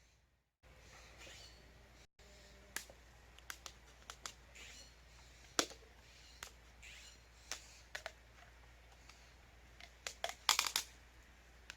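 Scattered sharp clicks and taps at irregular intervals, with a quick cluster near the end, and a few faint bird chirps between them.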